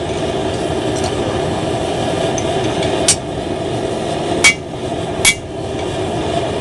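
A blacksmith's hand hammer strikes the mild steel axe head on the anvil three times, a little over 3, 4½ and 5 seconds in, each blow with a short metallic ring. The strikes sit over a steady rushing background noise.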